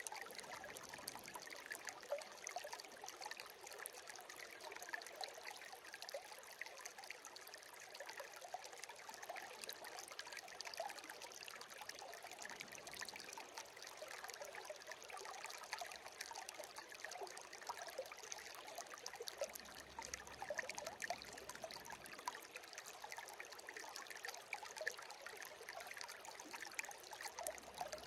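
Shallow stream babbling and trickling steadily, a constant light patter of small splashes with no deep rush.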